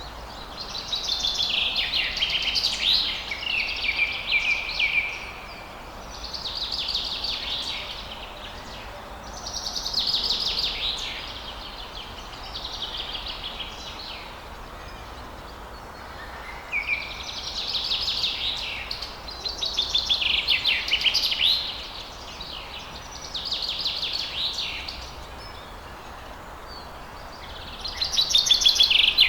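Songbird singing: short, fast, trilling phrases repeated every few seconds, with brief pauses between them, over a faint steady hiss.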